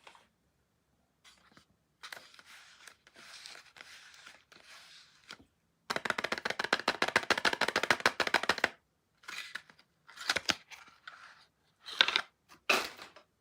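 Soap packaging being unwrapped by hand: the wrapper rustles softly, then crackles rapidly and densely for about three seconds in the middle, followed by a few separate crinkles, with two sharp ones near the end.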